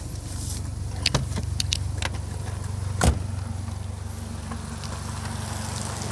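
Renault Mégane's engine idling with a steady low hum, with a few sharp clicks and a louder knock about three seconds in.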